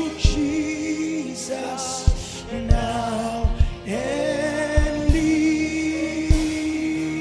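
Gospel worship song: a singer holds long, wavering notes over accompaniment with low drum beats.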